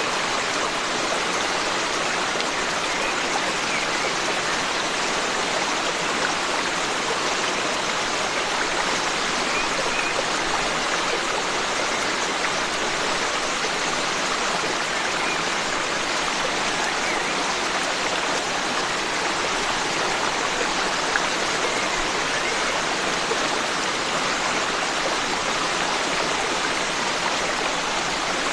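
Forest stream running steadily: a continuous, even rush of flowing water.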